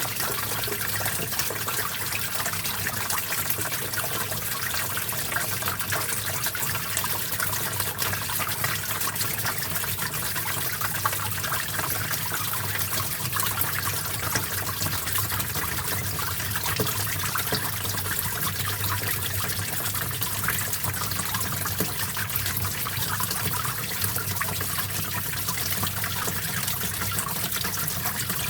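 Small stream flowing steadily, water trickling and splashing over stones.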